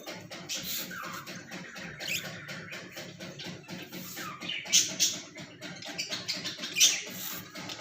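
Budgerigars chirping and chattering, with two louder, sharp calls about five and seven seconds in.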